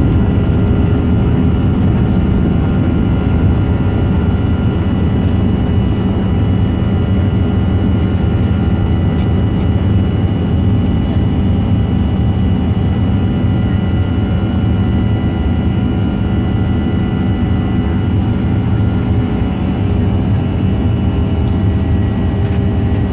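Boeing 737-900's CFM56-7B jet engines heard inside the passenger cabin: a loud, steady rush with a constant whine of several fixed tones, not rising or falling.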